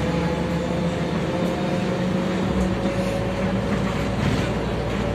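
Interior noise of a MAZ-105 articulated city bus on the move: a steady rumble from the rear-mounted diesel and drivetrain with a whine that rises slowly in pitch as the bus gathers speed. The low rumble changes character about halfway through.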